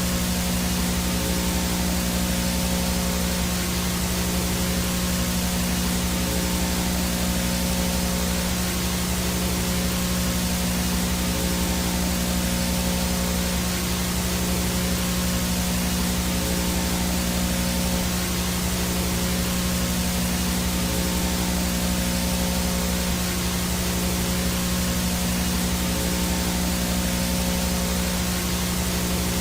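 Analog VHS/TV static: a steady, even hiss of 'snow' noise over a constant low hum, with a few faint steady tones above it, as from a tape with no signal and interference.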